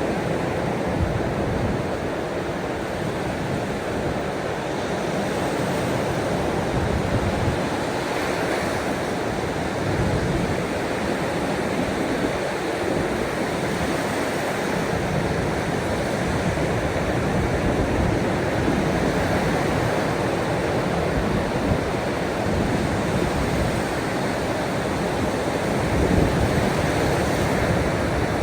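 Ocean waves washing ashore in a steady, continuous rush, with uneven low rumbles underneath.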